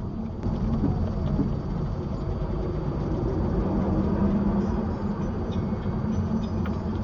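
Steady rumble of a moving vehicle's engine and road noise, stepping up a little in loudness about half a second in.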